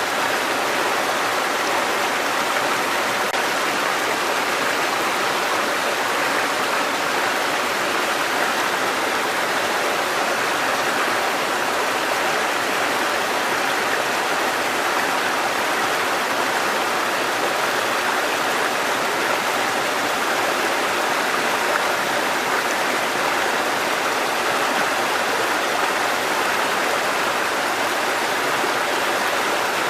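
Mountain stream water cascading over rocks: a steady, even rush of running water.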